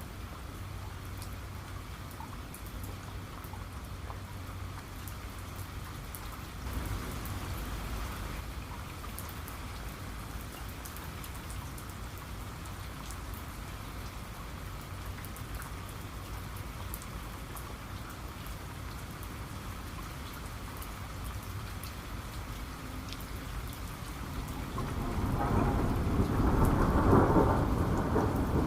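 Steady rain falling, with a low rumble of thunder about seven seconds in and a louder, longer roll of thunder building near the end.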